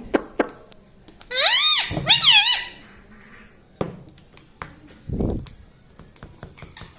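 Indian ringneck parrot giving two loud, high-pitched squawks that rise and fall in pitch, about a second in, with scattered light clicks around them and a shorter, lower call about five seconds in.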